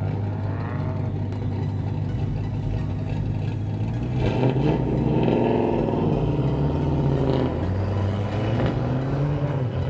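Car engines idling in a queue, then from about four seconds in an engine revving, its pitch rising and falling several times as the cars pull away.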